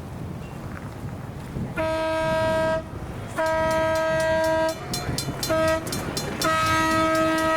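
Horn of a ride-on scale model locomotive sounding the grade-crossing signal: two long blasts, a short one, then a long one that is still sounding at the end. Behind it a mechanical crossing bell rings with rapid, even strikes.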